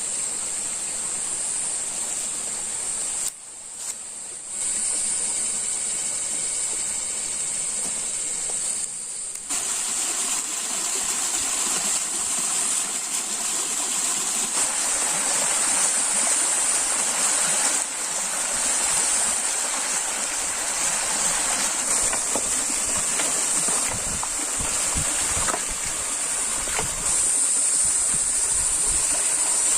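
Rushing stream water with a steady, high-pitched insect drone over it. The sound drops out briefly about three seconds in.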